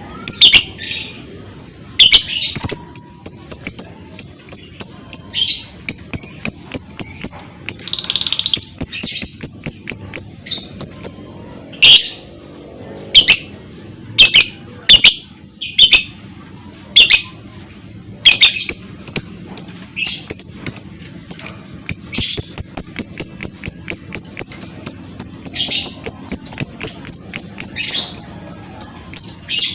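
Lovebird calling: sharp, loud chirps mixed with long runs of rapidly repeated high notes, the chattering 'ngekek' song that lovebird keepers play to set other birds singing.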